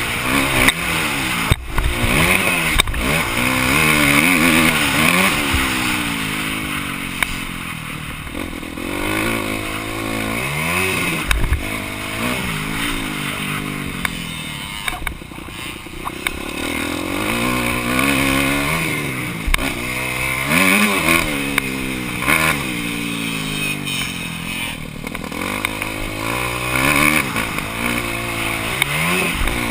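Motocross bike engine heard on board, revving up and dropping back over and over as the throttle opens and closes, with wind rush on the camera and a few sharp knocks.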